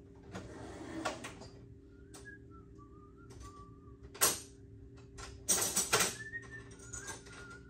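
Metal hand tools clinking and clattering as they are sorted through, with a sharp clank about four seconds in and a run of clatter a little after five seconds. Between the clatters, a faint whistled tune wanders up and down.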